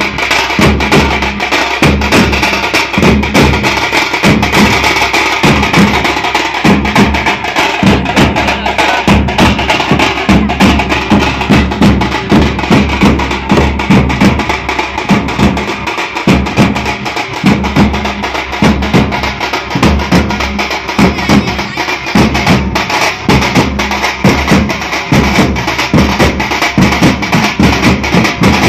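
A group of drums playing a loud, fast, driving beat without a break.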